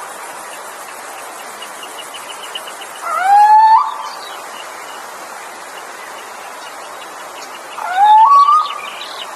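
A bird giving a rising, whistled call with a stepped upward slur, twice, about five seconds apart, over a steady background hiss.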